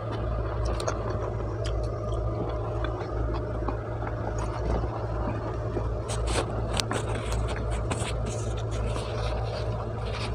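Pizza being chewed close to a clip-on microphone, with scattered small wet mouth clicks, over a steady low hum.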